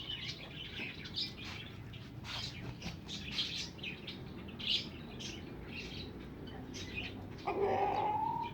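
Caged birds chirping in many short, high calls, with one louder call rising in pitch near the end.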